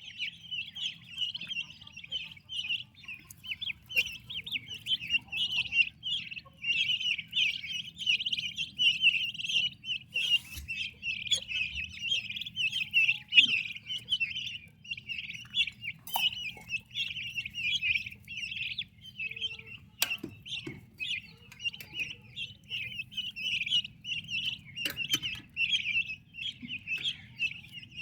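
Many turkey poults peeping together in a dense, continuous chorus of high chirps, with a few scattered sharp clicks.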